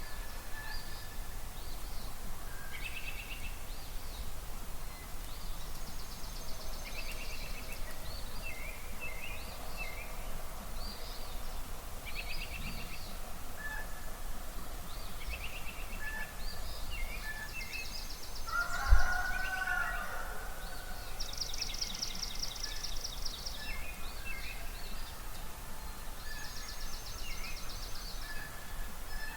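Spring dawn chorus of many songbirds: repeated high trills and short chirping phrases overlapping throughout. About two-thirds of the way through comes one louder, lower call from a large fowl.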